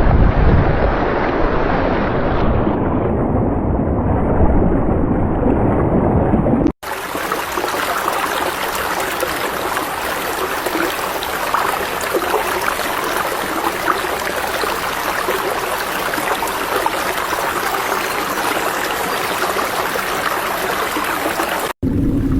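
Running water in edited clips: a dull, deep rush for the first seven seconds, then a hard cut to a brighter, hissing flow, with another cut near the end.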